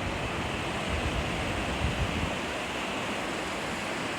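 Floodwater of the swollen Guadalupe River rushing steadily, with some low buffeting of wind on the microphone about one to two seconds in.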